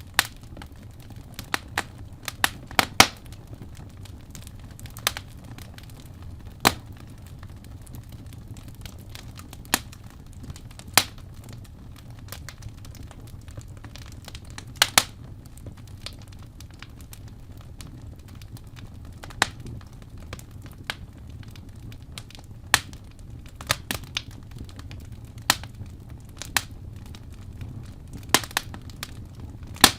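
Wood fire in a fireplace crackling: sharp, irregular pops about once a second over a steady low rumble of the burning fire.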